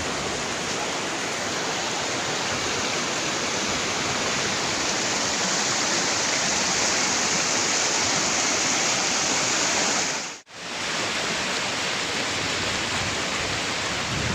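Steady rushing of a waterfall, an even roar of falling water that breaks off for an instant about ten seconds in.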